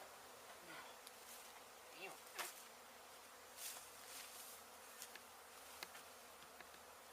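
Faint buzzing of a honey bee colony, with a few sharp clicks and scrapes.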